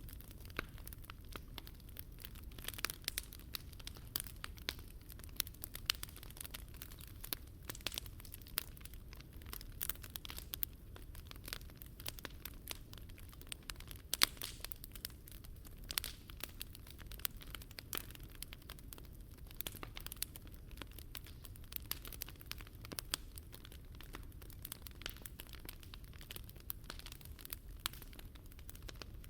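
Wood campfire burning in a Picogrill 398 fire pit, crackling and popping with many irregular sharp snaps over a low steady rumble. One pop about halfway through stands out as the loudest.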